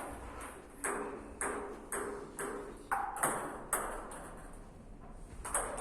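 Table tennis rally: the plastic ball clicking off rackets and the table about twice a second, with a lull about four seconds in and the hits starting again near the end.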